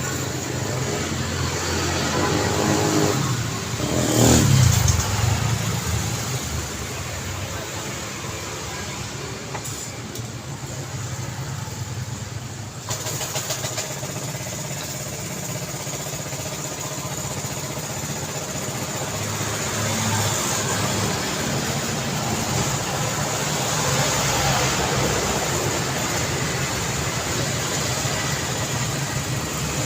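Road traffic: cars and other motor vehicles passing steadily, with one vehicle passing close and loud about four seconds in.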